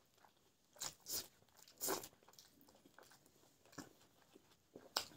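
Close-up eating sounds: a handful of separate crisp crunches and chews as a hand-fed mouthful of rice and fresh herb sprigs is chewed.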